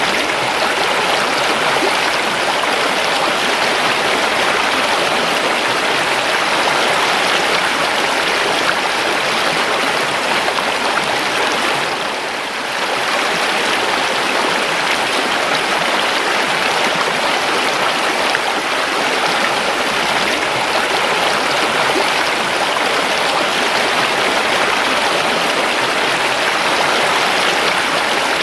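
A river flowing steadily, a continuous wash of running water that dips briefly about twelve seconds in.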